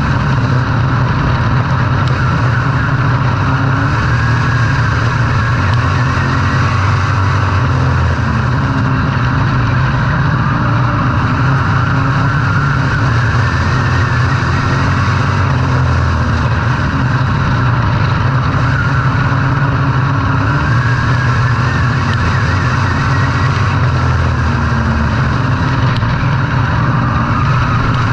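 Racing engines running hard without a break, their pitch rising and falling in slow waves as they accelerate and back off.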